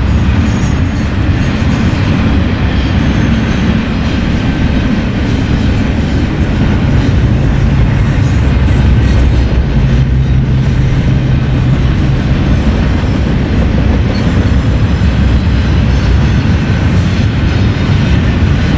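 BNSF freight train rolling past at close range: a loud, steady rumble of cars and wheels on the rails, with some clatter. A steadier low hum comes up in the middle and fades out by about twelve seconds in.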